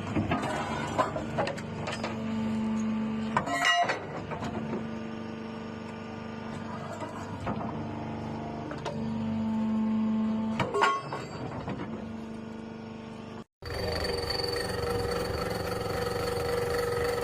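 A machine running with a steady drone and a hum that strengthens and eases twice, with a sharp click about a quarter of the way in and another about two-thirds in. It stops abruptly near the end and gives way to a different machine with a steady whine.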